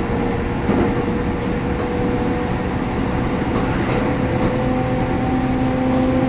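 Electric commuter train running at speed, heard from inside the passenger car: a steady rumble of wheels on the track under a motor whine that rises slightly in pitch. A lower whine joins about two-thirds of the way in, and there are a few faint clicks.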